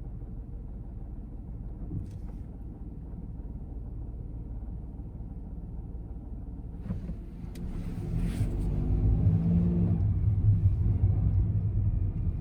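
Honda N-BOX's S07A three-cylinder engine heard from inside the cabin: a low steady rumble, a couple of sharp clicks about seven seconds in, then the engine note climbs and gets louder as the car accelerates.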